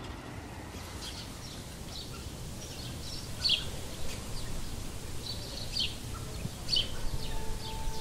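Small birds chirping in short, scattered calls over a steady low outdoor background rumble.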